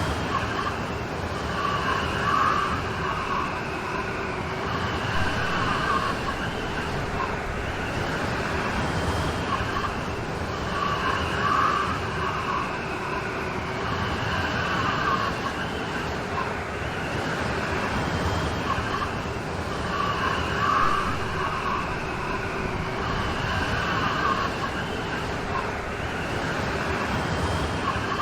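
Steady rain storm noise, a dense even hiss, with a faint swell that comes back every few seconds.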